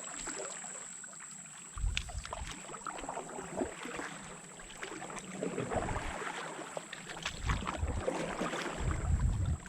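Canoe paddling on a river: water splashing and trickling around the paddle and hull, with scattered small clicks and a few low rumbles.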